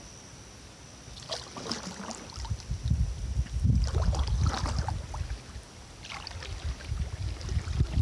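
Kayak paddle strokes splashing in the river, three bouts about two seconds apart, over a low rumble.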